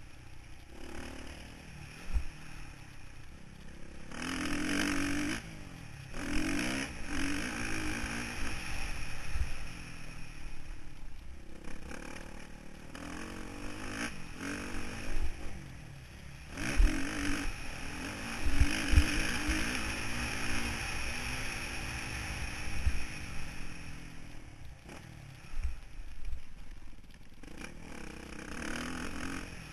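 Motocross bike engine heard onboard, revving up and falling back again and again, with a few sharp thumps and some rattling.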